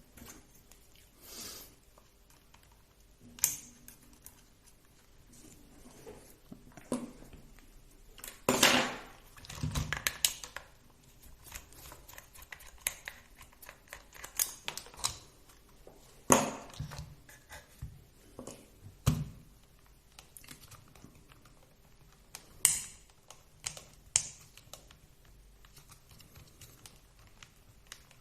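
Scattered clicks and light knocks of small plastic and metal parts being handled, as the wheels, wheel nuts and hex adapters come off a 1/16-scale RC drift car, with quiet gaps between.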